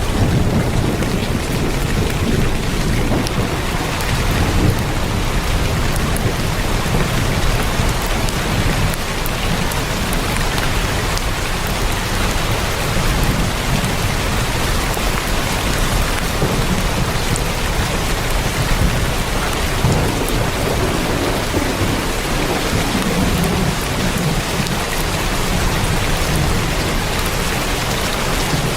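Heavy rain drumming steadily on a tin roof, a dense even patter with fine individual drop hits, over a low shifting rumble.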